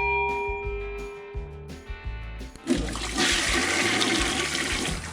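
The ringing of a bell dies away, then about two and a half seconds in a toilet flushes with a loud rush of water that carries on past the end.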